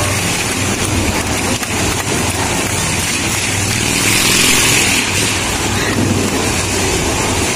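Motorcycle engines running steadily, growing louder for a moment about four seconds in.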